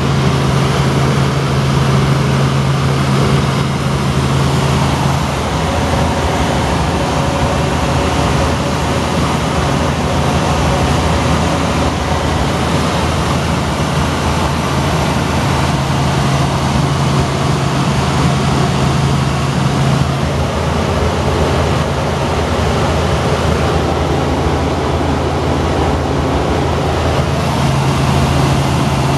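Helicopter in flight heard from inside the cabin: a loud, steady rotor and engine drone, with a low hum that fades and comes back a couple of times.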